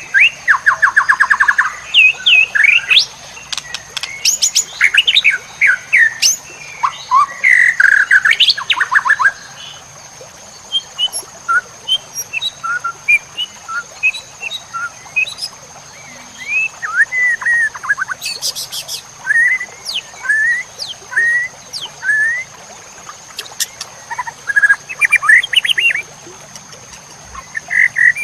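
White-rumped shama (murai batu) singing a varied song of loud whistles, rapid trills and chattering runs. The phrases come thickly for the first ten seconds or so, then turn into sparser short, sliding notes.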